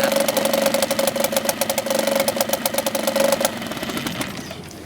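Yamaha 4 hp two-stroke outboard motor running warm after a hot start, with rapid, even firing. It stops abruptly about three and a half seconds in.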